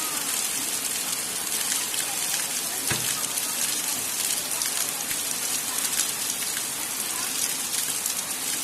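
Heavy rain falling steadily: a dense, even hiss of drops with scattered individual drop hits. A single dull knock about three seconds in.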